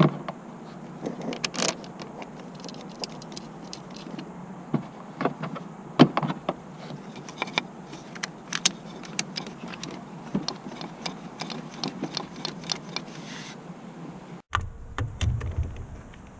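Irregular metallic clicks, taps and clinks of tools and parts being handled, with louder knocks at the start and about six seconds in. Near the end the background changes suddenly to a low rumble.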